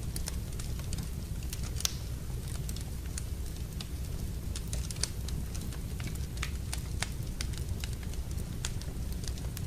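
Wood fire in a fireplace burning with a steady low rumble and irregular sharp crackles and pops, the loudest about two and five seconds in.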